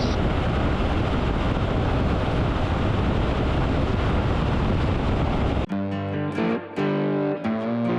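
Wind rushing over the helmet microphone along with the Triumph Tiger 800 motorcycle's engine and road noise while riding. About five and a half seconds in, this cuts off suddenly and electric guitar music takes over.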